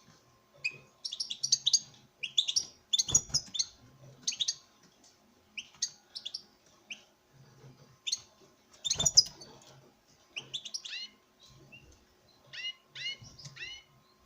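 European goldfinch singing in short, quick twittering phrases of bright chirps; the male is courting a female. Two sharp knocks, about three and nine seconds in.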